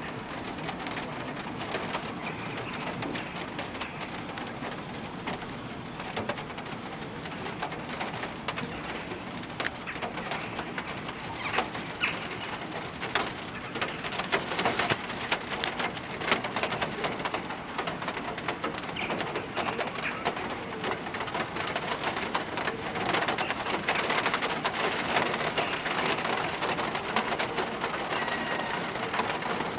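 Rain falling steadily, with many sharp drop hits that come heavier in spells around the middle and later, and rooks calling from their nests through it.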